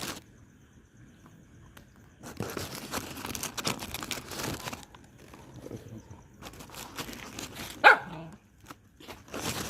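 A dog gives one short, sharp bark near the end, the loudest sound, among stretches of rustling, scuffling noise.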